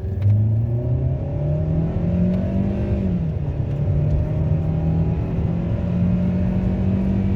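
Hyundai Avante MD's direct-injection (GDI) petrol engine pulling the car under acceleration: its pitch climbs for about three seconds, drops suddenly, then holds fairly steady with a slight rise. No knocking is picked out; this is the test drive after a new knock sensor and spark plugs.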